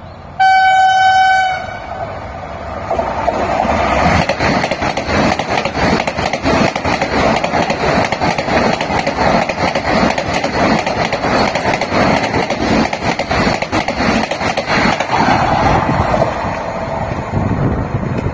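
An Indian Railways WAP-7 electric locomotive sounds its horn once, a single steady note lasting about a second. The train then runs past with continuous rhythmic wheel clatter, building over the next couple of seconds and easing slightly near the end.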